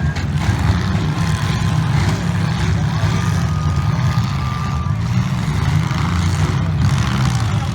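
Demolition derby cars' engines running loud and rough, a dense steady rumble of several cars pushing in the arena, with a faint thin whine held for a few seconds near the middle.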